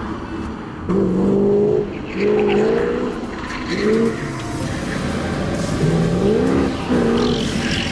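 Mercedes SL500 (R129) with its M119 5.0-litre V8 revving up and falling back in repeated short surges as the car is thrown through tight turns, tyres scrubbing as it slides.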